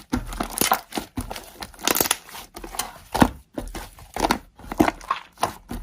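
Slime being squished and pulled by hand, giving irregular crinkly, crackling squelches.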